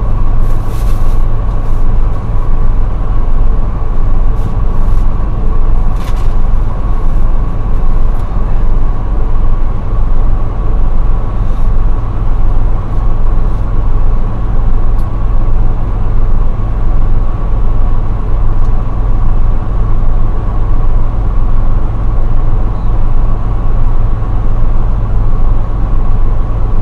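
Semi-truck engine running with a steady low rumble, heard inside the cab, with a faint steady whine on top. A couple of brief clicks about a second in and again around six seconds in.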